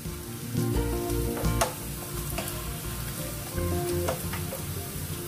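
Sliced onions with chillies and curry leaves sizzling in hot oil in a kadai as they are sautéed, stirred with a wooden spatula that scrapes and taps against the pan a few times.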